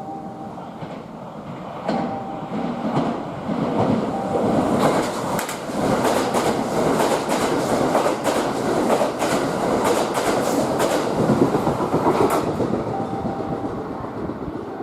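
Kintetsu limited express electric train passing at speed. Its wheels click-clack in a quick steady rhythm over the rail joints. The sound builds about two seconds in, is loudest through the middle, and fades near the end.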